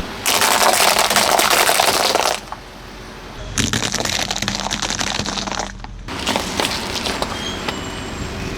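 Brittle dry food crackling and snapping as a car tyre crushes it, in three stretches of dense crackling with short pauses between.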